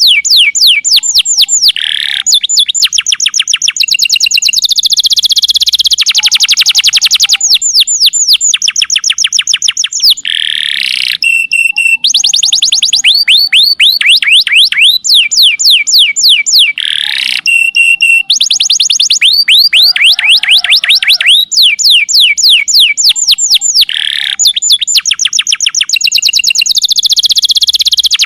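Domestic canary singing loud, continuous long trills of fast repeated notes, switching from one trill type to the next every second or two: the long 'nembak' song prized in a gacor canary.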